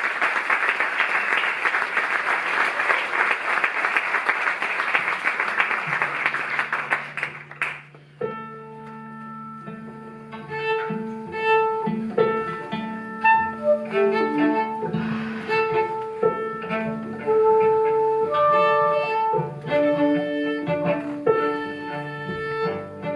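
Audience applause that dies away about seven seconds in, as a low held note enters; then a small string ensemble begins, cello and violin bowing sustained notes.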